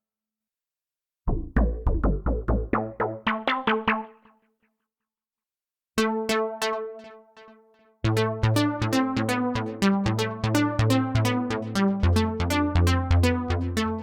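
Cherry Audio P10 software synthesizer playing pluck presets: runs of short, quickly decaying notes repeated in fast arpeggio-like patterns, separated by brief silences between presets. From about eight seconds in, a steady pattern plays over a pulsing bass.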